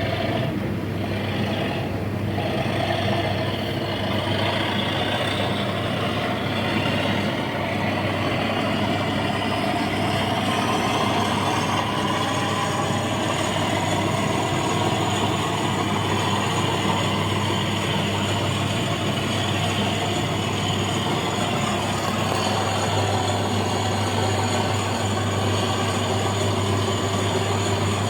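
Accurascale Class 37 model diesel locomotive running: a steady engine sound over a low hum, with a high whine that rises about eight seconds in and then holds. The loco is the faulty one that draws far too much current and runs badly.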